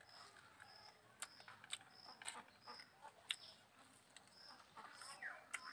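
Near silence with faint outdoor ambience: a small bird chirping a short high note over and over, about twice a second, and a few faint sharp clicks.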